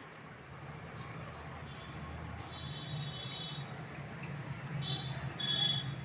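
Small caged birds chirping: a quick, steady run of short high falling chirps, about three a second, with a few brief trills, over a low steady hum.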